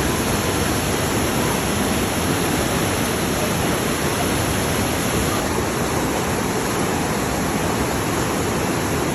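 Ocean surf breaking, heard as a steady, even rushing noise.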